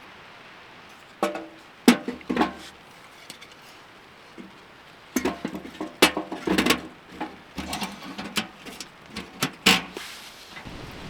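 Irregular sharp knocks and clanks, some with a short ring, from hard objects being handled, in two clusters about a second in and from about five seconds on. Light rain patters steadily underneath.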